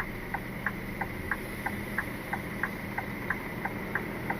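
Indicator relay ticking inside the cab of a Scania R450 truck, about three even clicks a second, over the steady hum of the diesel engine idling.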